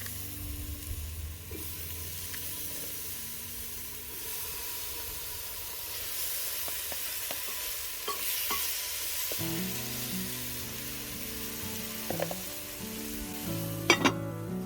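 Food sizzling in a hot pot while it is stirred, with a steady frying hiss, and a couple of sharp clacks of a utensil against the pot near the end. Background music plays underneath.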